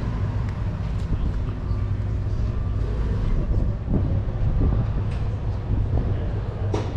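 Outdoor background ambience: a steady low rumble with faint scattered distant voices, and one sharp click about a second before the end.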